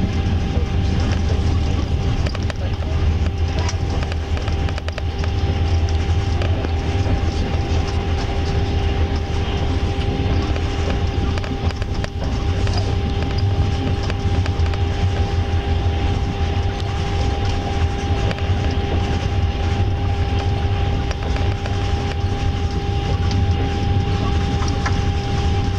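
Passenger train coach running at speed, heard from inside: a steady rumble of wheels on the rails with a constant hum.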